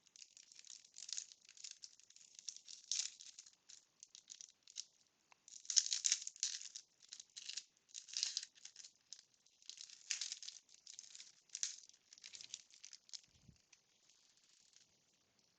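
Wax paper wrapper of a 1992 Bowman baseball card pack crinkling as it is torn open and handled, in many quick crackles that die away near the end.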